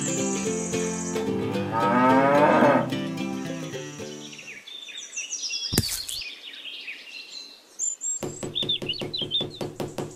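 A cow mooing over background music, loudest about two to three seconds in. The music thins out midway, broken by one sharp click, and comes back with a quick, steady beat near the end.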